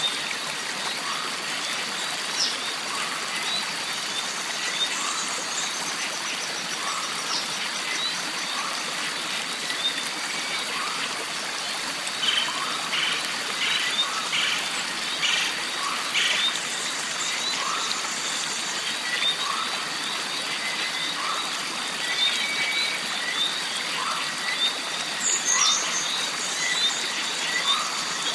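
Jungle stream ambience: water running and trickling steadily, under a constant high insect drone. Short animal calls repeat about once a second, with scattered higher bird chirps.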